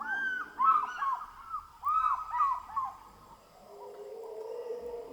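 A bird calling in quick clusters of short arched whistled notes, which stop about three seconds in. A fainter low steady hum follows near the end.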